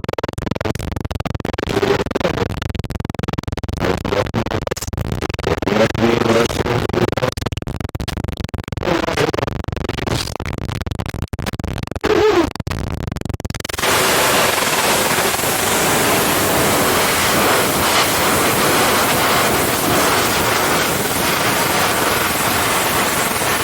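Loud TV static. For about the first half it is choppy and crackling, with brief wavering voice-like fragments breaking through. About 14 seconds in it switches abruptly to a steady, even hiss.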